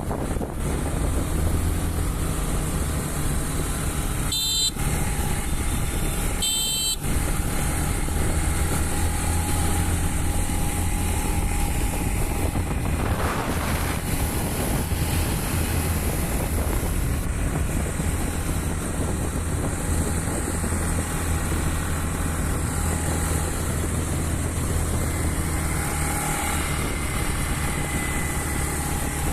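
Motorbike engine running steadily while riding, with road and wind noise. Two brief high beeps, about two seconds apart, a few seconds in.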